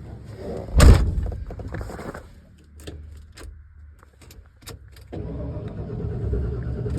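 A truck door slams shut about a second in, followed by several light clicks and key rattles. About five seconds in, a steady electrical hum starts as the truck's electrics come on with its freshly connected battery.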